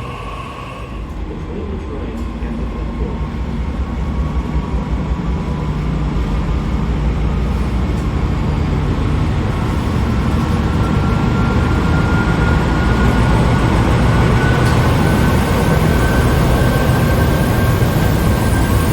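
Sydney Trains electric suburban train growing louder over the first dozen seconds, with a low rumble and, from about ten seconds in, a thin whine that rises slowly in pitch.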